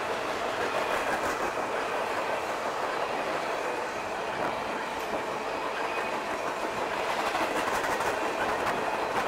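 A train passing on the rails: a steady rolling rumble of wheels on track, with a quick run of wheel clicks over rail joints near the end.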